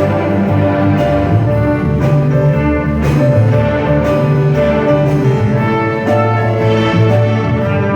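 Orchestral music: held notes sounding together in chords that change about once a second.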